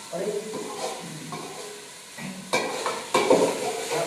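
Food frying in a pot and being stirred, with a steady sizzle. Twice, about two and a half and three seconds in, a utensil clatters sharply against the pot.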